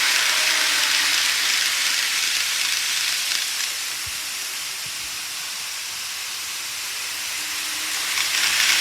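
Model railway trains running on the layout track: a steady rolling hiss that eases off in the middle and swells again near the end.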